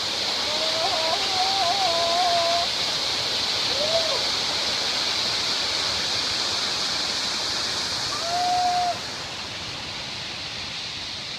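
Waterfall rushing steadily, with a few short, faint pitched calls heard over the water.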